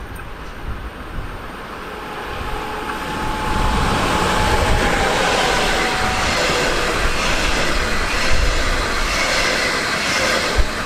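Train passing along the track, the noise of its wheels on the rails building over the first few seconds and then holding steady. A faint whine falls slightly in pitch as it goes by.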